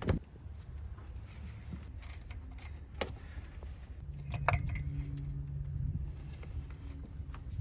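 Scattered light metallic clinks and taps of hand tools, socket, extension and ratchet, handled while working on the engine's rear spark plugs and ignition coils.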